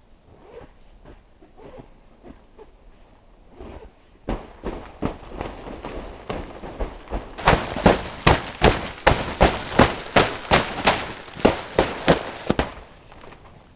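Footsteps at a quick, regular pace, about two to three steps a second, each one a crisp crunch. They grow louder as they come close, are loudest for about five seconds, then fade near the end.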